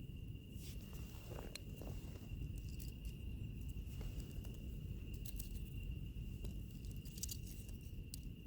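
Wood fire crackling with scattered sharp pops, a few bunched together near the end, over a low rumble, while an insect, typically a cricket, sings one steady high note throughout.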